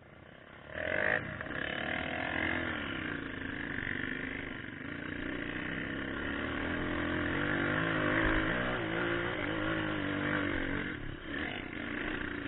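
Trail motorcycle engine opening up about a second in, then running under load with its pitch rising and falling as the throttle changes.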